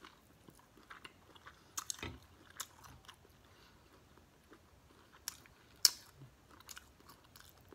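Close-up mouth sounds of a person biting into and chewing buttered lobster tail meat: soft, wet chewing broken by scattered sharp clicks, the loudest a little before six seconds in.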